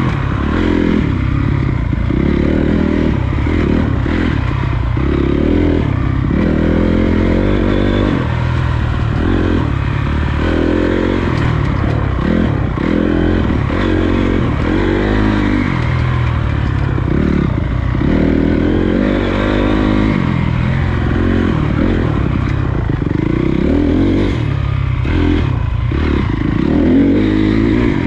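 Honda CRF250 dirt bike's single-cylinder four-stroke engine riding on a trail, revving up and falling back over and over as the throttle is worked, with steady noise from wind and the ride underneath.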